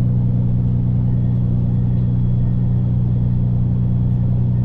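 Straight-piped, fully deleted PACCAR MX13 inline-six diesel in a semi truck, running with a steady, unchanging low drone.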